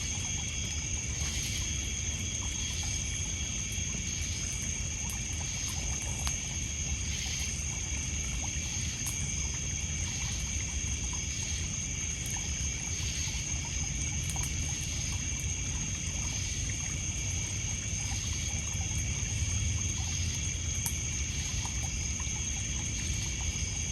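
Crickets and other night insects trilling steadily in several high pitches over low water lapping on a pebble shore, with a few faint crackles from a wood campfire.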